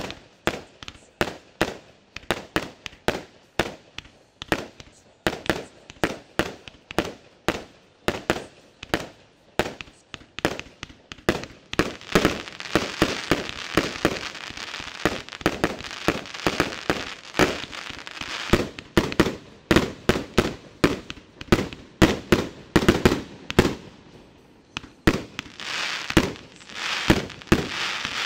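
A 264-shot fireworks cake of 20–38 mm tubes firing in quick succession: a steady run of sharp shots and bursts, about two or three a second. A thick layer of crackling stars joins in from about twelve to nineteen seconds in, and again near the end.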